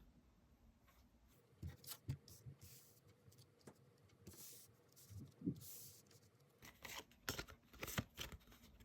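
Tarot cards being handled on a table: papery swishes as cards slide, with scattered light taps that cluster more thickly in the last couple of seconds.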